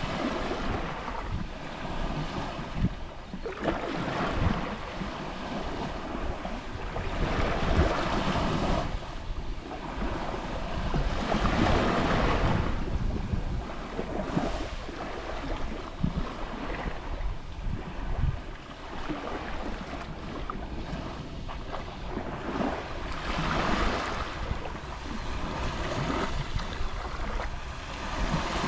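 Gentle Mediterranean sea waves lapping on the shore. The wash swells and fades every three to four seconds.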